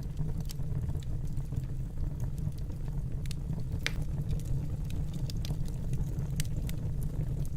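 Wood fire burning in a fireplace: a steady low rumble with scattered sharp crackles and pops from the burning logs, a louder pop about four seconds in.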